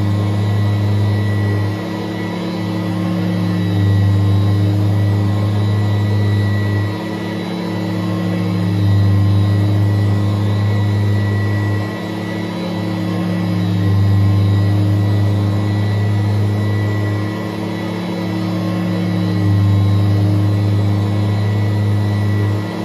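Kirby upright vacuum cleaner running with a steady motor hum. The hum swells and eases again about every five seconds.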